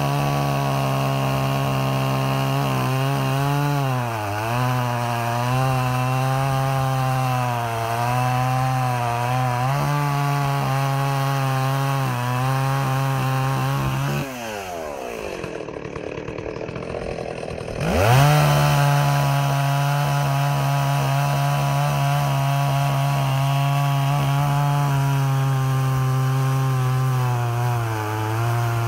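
Stihl 038 Magnum two-stroke chainsaw running at high revs, most likely cutting wood. About halfway through the throttle is let off and the engine falls to idle for a few seconds, then it revs straight back up to full speed.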